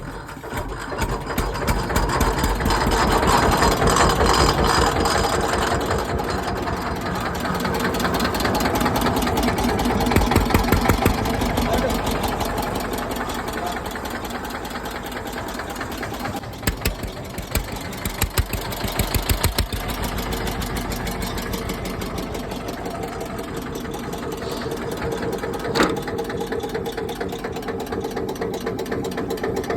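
Eicher 241 tractor's single-cylinder air-cooled diesel catching just after a hand start from the PTO pulley, then running steadily with even firing knocks. A few sharper knocks stand out past the middle.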